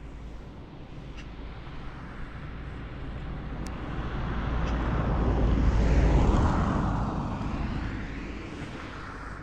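A vehicle passing by: a broad rushing engine noise that grows louder to a peak about six seconds in, drops in pitch as it passes, and fades away.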